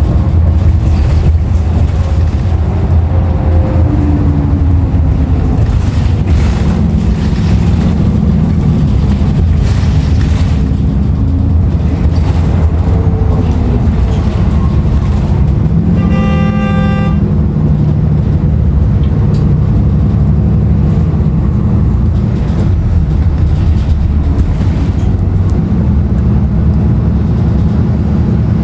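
Cummins ISL9 diesel engine of a 2016 Nova Bus LFS transit bus running under way, heard from inside the cabin as a steady low rumble. About sixteen seconds in, a horn sounds once for about a second.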